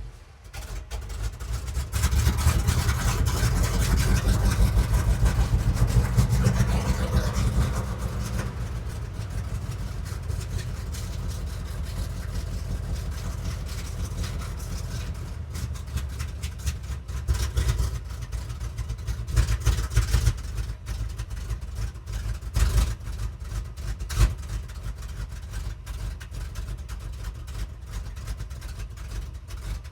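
Mopar V8 in a camper pickup, running just after being started from months of sitting. It runs loud and fast for the first several seconds, then settles to a lower idle, with a few brief throttle blips in the second half.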